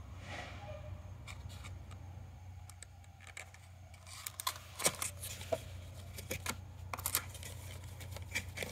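Small aluminium compression fittings of an A/C line splice kit clicking and clinking as they are handled, a quick run of light metallic clicks starting about halfway through, over a low steady hum.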